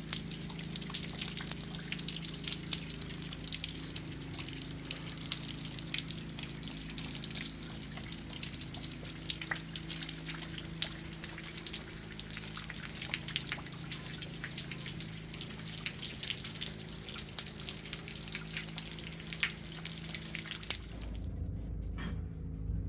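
Heavy rain falling, with many sharp drips over a steady hiss and a low hum underneath. Near the end the rain sound cuts off suddenly and a low rumble takes over.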